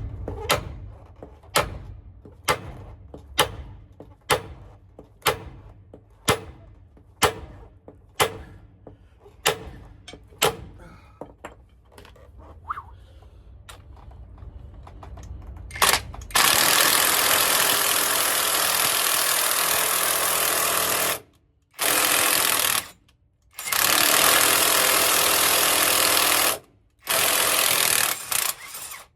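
Hammer blows on a part held in a press, about one a second, while a stuck driveshaft center-bearing part is driven out. After about 16 seconds a loud air tool runs in four bursts with short breaks between them.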